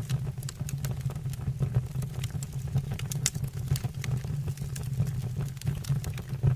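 Wood fire burning in a stove or fireplace: a steady low rumble with frequent irregular crackles and pops from the burning wood.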